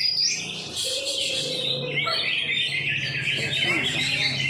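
Many caged greater green leafbirds (cucak ijo) singing at once, a dense, continuous chorus of fast high chirps and warbles.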